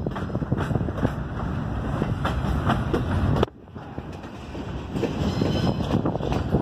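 Railroad cars of a passing train rolling by, wheels clicking over the rail joints, with wind on the microphone. The sound drops off suddenly about three and a half seconds in, then builds back up.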